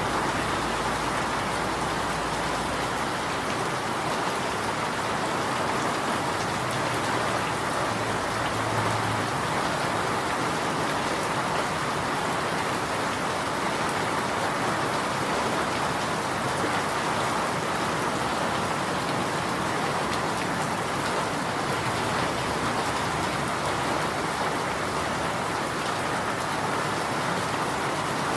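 Steady rain falling in an even, unbroken hiss. A faint low rumble underneath drops away about three seconds in.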